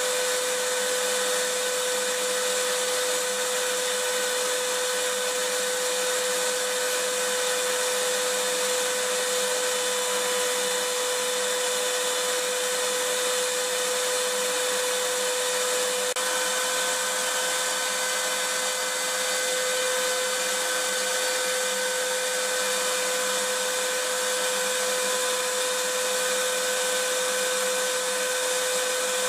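Vacuum cleaner running steadily: an even rushing hiss of air with a constant motor whine.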